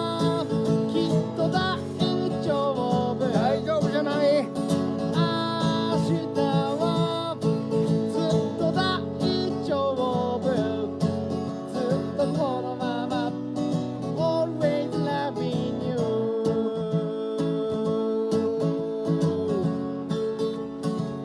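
Music: an acoustic guitar playing, with a voice singing a melody over it.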